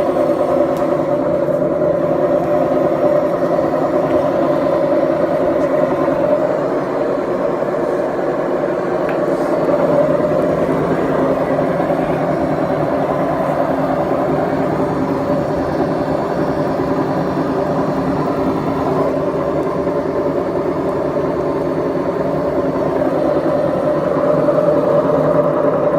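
Beko washing machine running, its drum giving a loud, steady droning noise with several held tones: the drum bearings are worn out.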